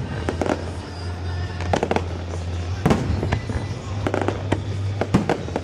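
Fireworks going off in quick succession, sharp bangs and crackles at irregular intervals, with louder clusters about halfway through and near the end. Music plays underneath.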